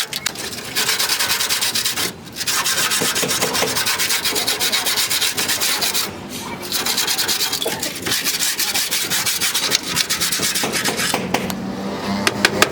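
Abrasive sanding on the rusty sheet-steel of a car door: a steady, harsh scraping that stops briefly twice, about two and six seconds in.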